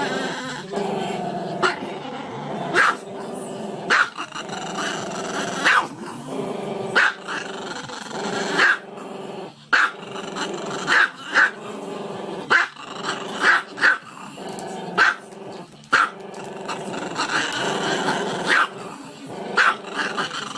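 A dog growling continuously, broken by sharp barks about once every second or so.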